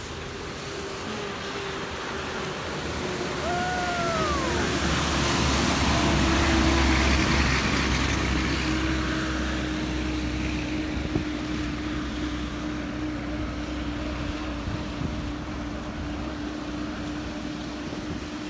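A vehicle driving through a flooded road in heavy rain: a steady rushing of water and rain with an engine underneath, swelling louder about four to eight seconds in. A short squeal rises and falls about four seconds in.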